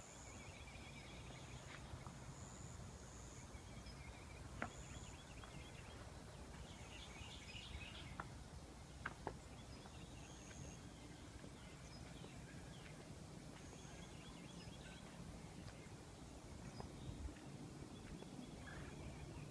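Small birds chirping and trilling faintly in short, scattered high calls over a low steady hum, with a few sharp clicks.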